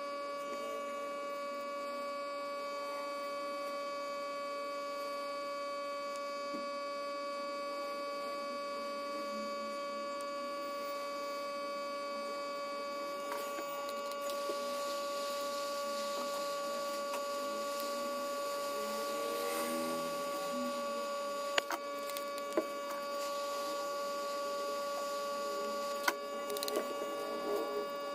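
Steady electrical hum with a high, even whine, with a few sharp clicks and light handling noises near the end.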